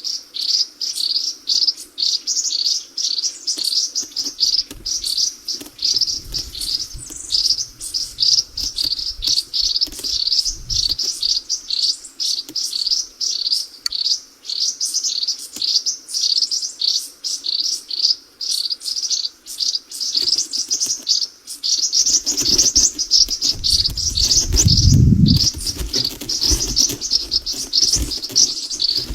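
Small birds chirping without pause in quick, high-pitched notes, several a second. Low rumbles come through underneath, loudest about three-quarters of the way in.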